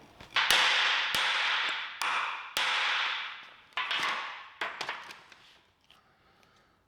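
Sharp clicks and taps from small metal parts being handled, with a hiss after several of them that dies away after about five seconds.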